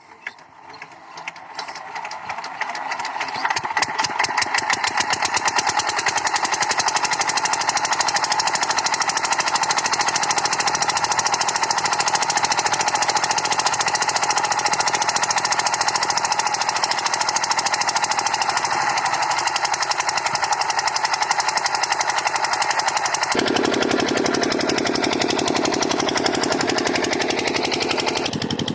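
8 HP single-cylinder diesel water-pump engine coming up to speed, its rapid knocking beat building over the first few seconds, then running steadily. About two-thirds of the way through, a deeper tone joins the engine sound.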